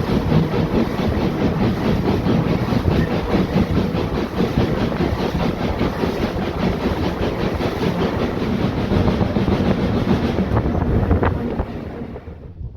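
A train running past close by, its wheels clattering along the track. The sound drops away sharply near the end.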